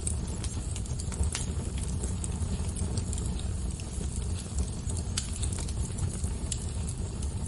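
Fire crackling, with scattered sharp pops and snaps over a steady low rumble.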